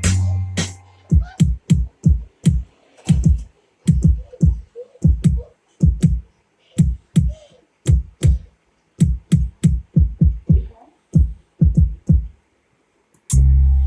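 Electronic 808-style kick drums from a Maschine drum machine, struck one after another in an uneven rhythm, each boom dropping in pitch. The kicks stop about 12 seconds in, and a full beat with a held deep bass starts up just before the end.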